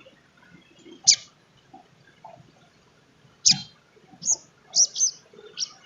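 Sogon trotol sunbird giving short, sharp, high-pitched chip calls, each a quick downward sweep: one about a second in, another midway, then a quick run of four near the end.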